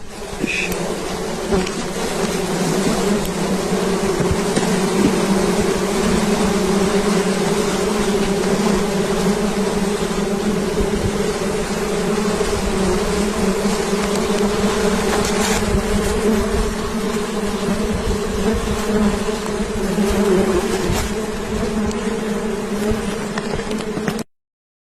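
A mass of wild honeybees buzzing in a loud, steady drone that stops abruptly near the end.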